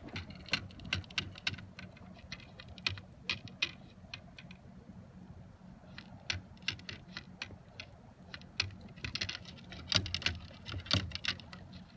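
Small waves lapping and slapping against a kayak hull: irregular light taps and splashes over a low rumble, busier near the end.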